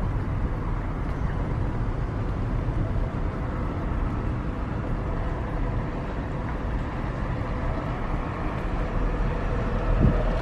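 Car driving along a road: a steady low rumble of engine and tyres, with a brief bump near the end.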